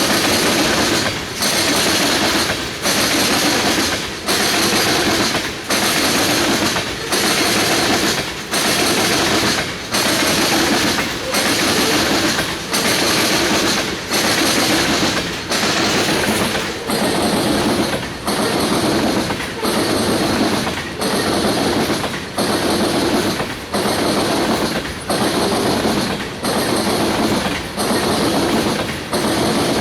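Loaded tank cars of a freight oil train rolling past, their wheels beating over the rail in a steady rhythm about every second and a half.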